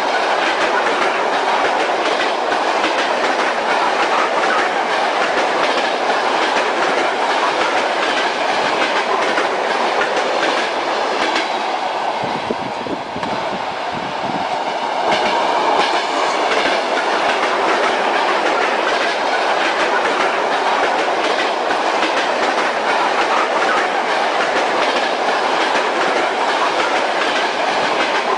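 Train ride: the steady rumble of a moving railway carriage with the clickety-clack of its wheels over the rail joints, easing off briefly about halfway through before resuming at the same level.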